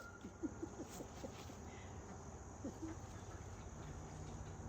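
Faint steady high trill of crickets, with a few soft, short low calls in the first second and again near three seconds in.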